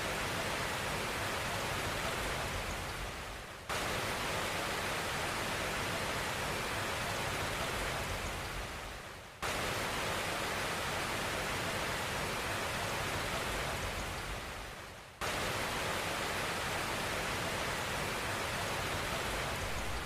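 Steady rain hiss with no distinct drops or thunder. About every six seconds it sags slightly, then cuts straight back in at full level, as a looped recording does.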